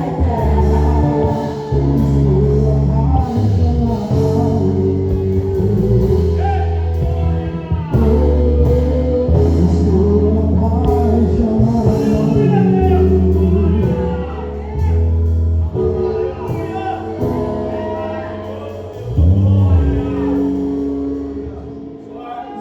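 Live Portuguese gospel worship band playing, with a heavy bass line that holds each note for a second or two and a voice singing over it; it eases off near the end.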